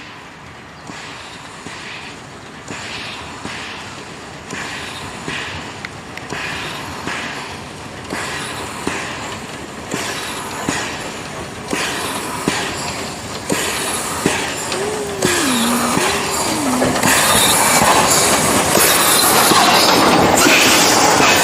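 Steam locomotive 314.303 "Kocúr", an 1898-built ČSD class 314.3, puffing at a steady rhythm and growing louder as it approaches. In the last few seconds the noise of the train passing close takes over.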